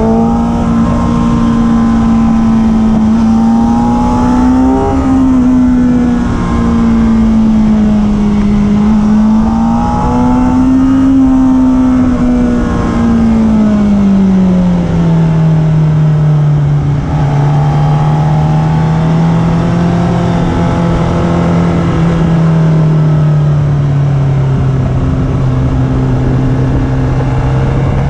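Sport motorcycle engine at track speed, heard from the bike itself with wind rush. The engine note rises and falls with the throttle over the first fifteen seconds, then drops to a lower, steadier pitch.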